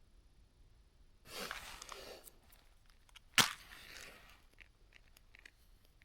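Rustling and handling of fire-starting material, then one loud sharp crack about three and a half seconds in, followed by a few faint crackles as the campfire is being lit.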